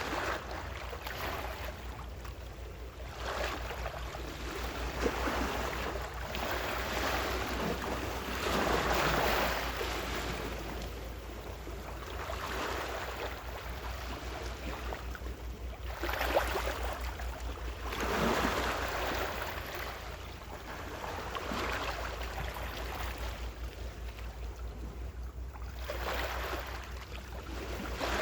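Gentle ocean waves washing in, swelling and fading every several seconds, over a steady low rumble.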